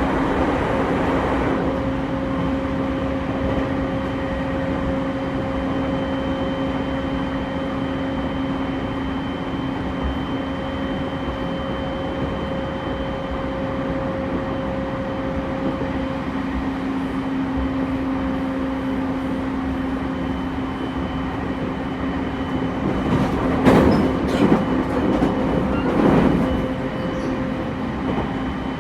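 Running noise heard inside an E231-series commuter train car with Mitsubishi IGBT-VVVF drive, moving at speed between stations: a steady hum with fixed tones over a rumble. Near the end come two louder rushing bursts a couple of seconds apart.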